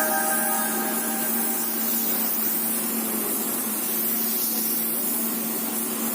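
Compressed-air paint spray gun hissing steadily as it sprays paint, with a faint steady hum underneath.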